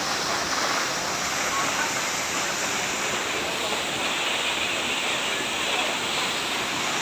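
Kapildhara waterfall on the Narmada river: falling water making a steady, even rush.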